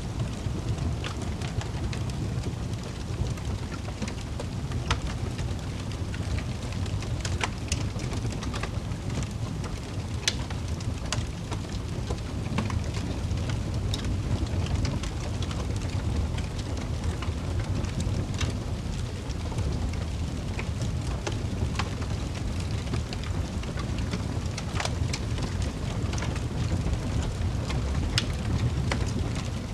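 Wood fire crackling in a fireplace: irregular sharp pops and snaps scattered over a low, steady rumble.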